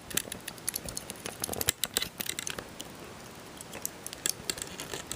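Small plastic Lego pieces clicking and rattling as they are handled, with a dense run of quick clicks over the first few seconds that then thins out.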